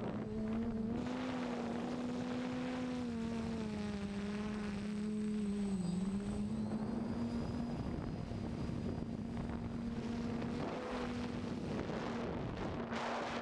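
DJI F550 hexacopter's motors and propellers humming in flight, a steady tone whose pitch wavers slightly up and down, with wind noise on the microphone.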